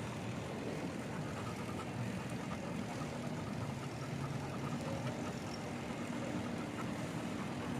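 Steady outdoor street noise with a motor vehicle engine running at a low, even hum.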